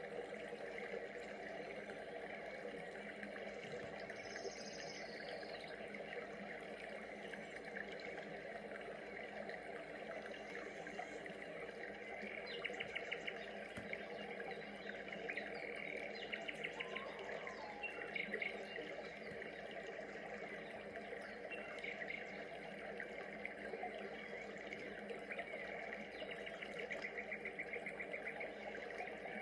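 Rainforest ambience: a dense, steady chorus of many birds chirping and insects trilling, with bursts of fast repeated trills about halfway through.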